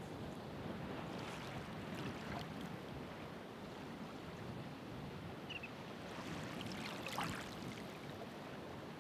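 Ocean waves breaking and washing in, a steady rush with short splashes about a second and a half and two seconds in, and a louder splash about seven seconds in.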